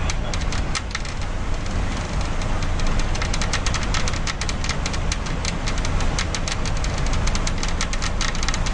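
Strong wind buffeting the microphone: a steady low rumble with rapid, irregular crackling clicks throughout.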